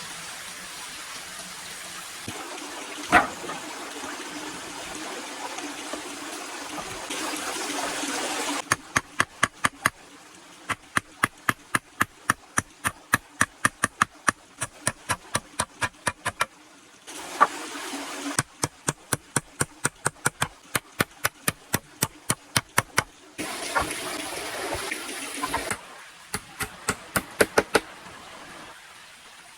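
Rushing, water-like noise with one loud knock early on. About a third of the way in it gives way to a long run of sharp, evenly spaced knocks, about three a second, broken twice by short stretches of the rushing noise.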